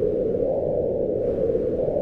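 Howling mountain wind: a steady rushing with a hollow, moaning tone that sags and rises a little in pitch, with a brief higher hiss of a gust partway through.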